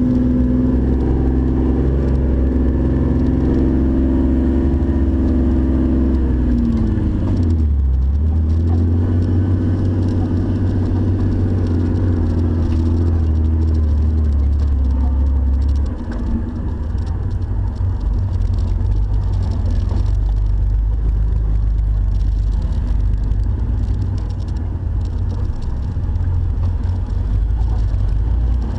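Jeep engine running while off-roading, its revs falling about a quarter of the way through and then holding at a steady low drone.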